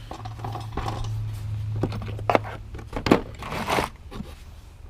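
Small objects being handled and sorted by hand: rustling with a few sharp clicks and taps, over a low steady hum.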